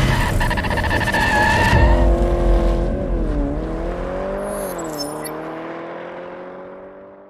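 Intro sound effect of a car engine revving, with a tyre squeal in the first two seconds. The engine note dips and climbs twice, then the sound fades out.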